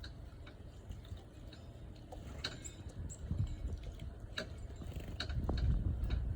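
Birds feeding: scattered light taps and clicks, with a couple of brief high chirps, over a low steady rumble.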